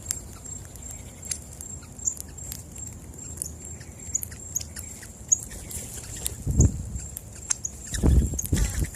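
Outdoor morning ambience at a birdseed spot: scattered short high clicks and chirps from feeding birds over a thin steady high tone, with a few low thuds about two-thirds of the way in and again near the end.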